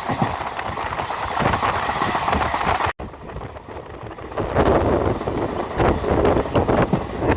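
Passenger train running along the track, its rumble mixed with wind buffeting the microphone. The sound cuts out for an instant about three seconds in, comes back quieter, and swells louder again a second or so later.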